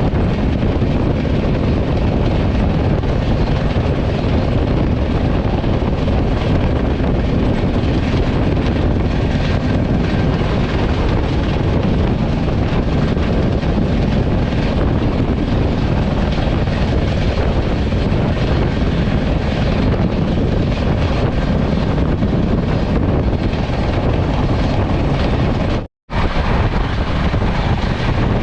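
Passenger train running at high speed: a steady, loud rumble and rush of wheels, track and wind. It cuts out for a split second near the end.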